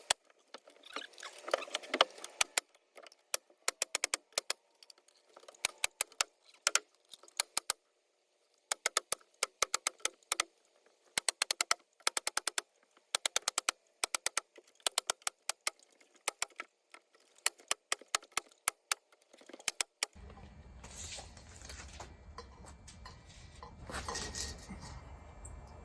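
Nail gun fastening deck boards: a quick series of sharp shots in clusters, with short breaks between them. About twenty seconds in the nailing stops and a steady low hum takes over.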